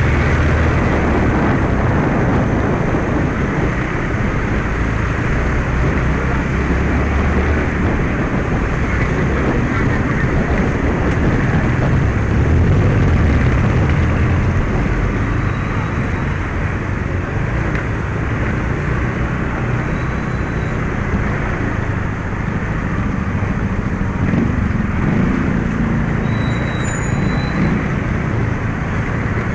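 Steady wind rush and road noise with the drone of an automatic scooter's engine while riding.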